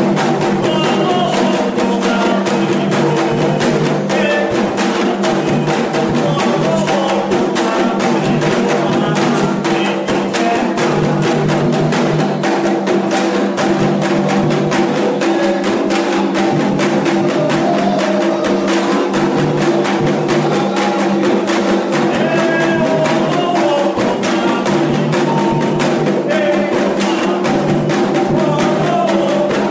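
Candomblé ceremonial drumming: atabaque hand drums played in a fast, steady rhythm with a struck metal bell (agogô) keeping time.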